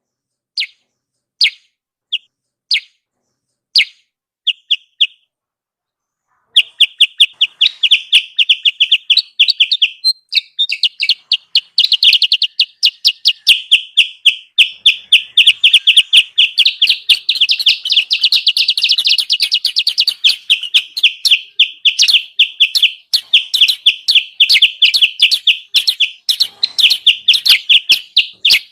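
Bird-lure recording of kutilang sutra calls. A few separate high chirps come in the first five seconds, then after a short pause a fast, unbroken chatter of chirps.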